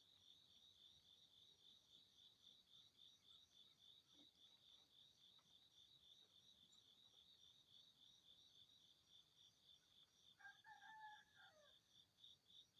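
Faint insect chirping: a steady high-pitched pulsing, about four chirps a second. A single pitched animal call about a second long comes in near the end.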